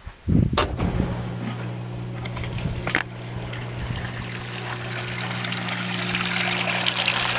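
LG front-load washing machine's newly fitted drain pump humming steadily as it pumps the water out, with water trickling and splashing through the drain that grows louder toward the end: the pump is draining, so the repair has worked. Two sharp clicks come from the machine about half a second and three seconds in.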